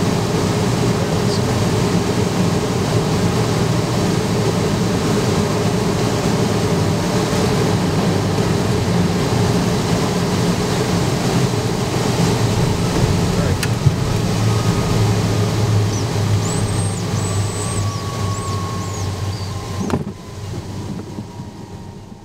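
Steady cockpit noise of a Learjet 35 with its TFE731 turbofans running and air rushing past, with one sharp knock a little past halfway and a faint falling whine later on. The noise drops sharply near the end and fades away.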